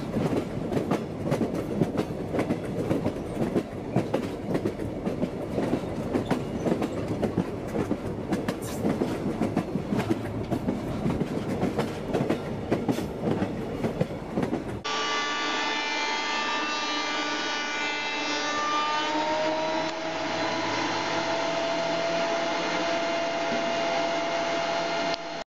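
A railway car rolling on track, its wheels clicking and rattling over the rails in a dense, continuous clatter. About fifteen seconds in, it cuts abruptly to a held sound of several steady tones that slowly slide in pitch.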